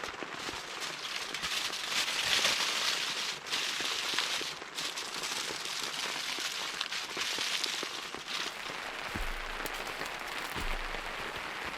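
Steady rain pattering, a dense hiss of many small drops that swells louder a couple of times.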